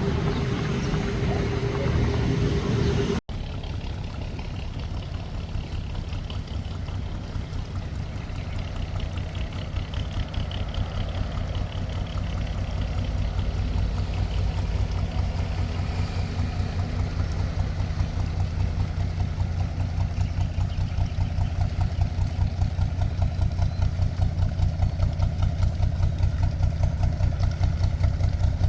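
A canal boat's engine running with a steady, rapid chugging beat that grows louder toward the end. A different steady hum with a held tone fills the first three seconds, then breaks off suddenly.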